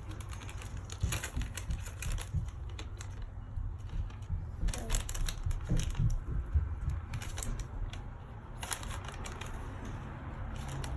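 A spoon scooping citric acid crystals: irregular light clicks and scrapes, with handling bumps.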